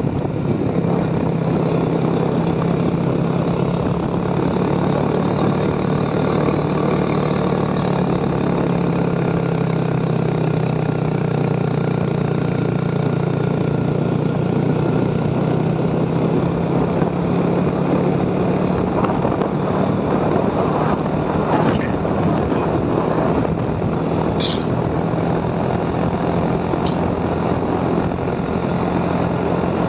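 Motorcycle engine running steadily under way, its pitch holding fairly even as the bike cruises along the road.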